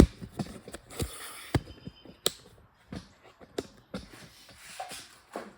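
Camera tripod being extended: a series of sharp, irregularly spaced clicks and knocks from its leg locks and sliding leg sections.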